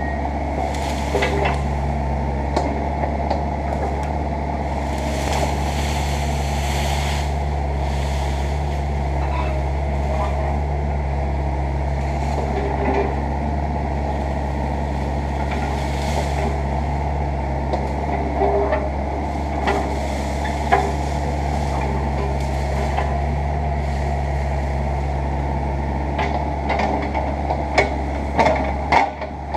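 Mini excavator's diesel engine running steadily under work, with scattered snaps and knocks as underbrush is cleared and a brief hiss about five seconds in.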